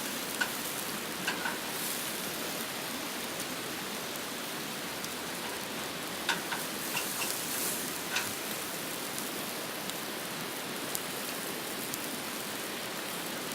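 Pork steaks and buttered mushrooms sizzling on a grill: a steady hiss with a few sharp pops and crackles scattered through it.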